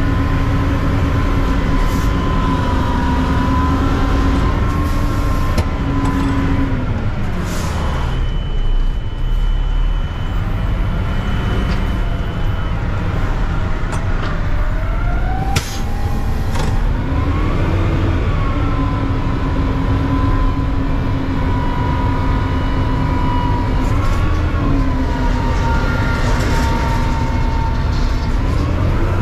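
Front-load garbage truck's engine and hydraulics running at raised revs with a steady whine. The whine sinks to a low idle about seven seconds in and climbs back up around seventeen seconds, following the engine speed, with a few sharp clanks along the way.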